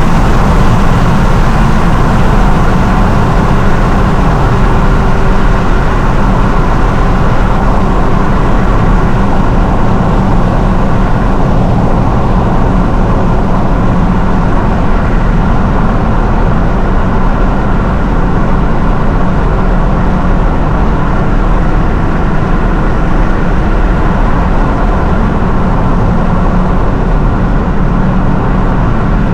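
Nissan R35 GT-R's twin-turbo V6 running steadily under light load, a constant low engine and road drone with no hard revving.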